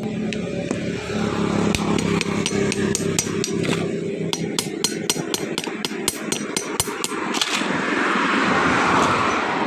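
A quick run of sharp taps or clicks, about four a second, over a steady low hum, giving way to a rushing noise near the end.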